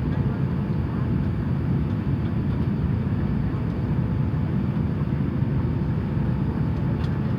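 Steady low rumble inside the cabin of an Airbus A350-900, its Rolls-Royce Trent XWB engines running at low power with the air-conditioning hiss, while the aircraft taxis; a faint steady hum sits over it.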